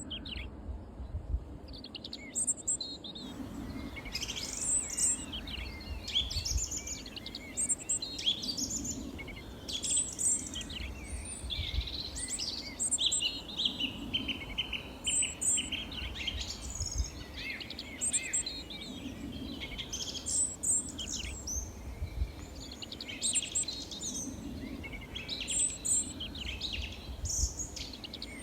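Small songbirds chirping and singing, many short high calls and trills overlapping one another, over a low rumble.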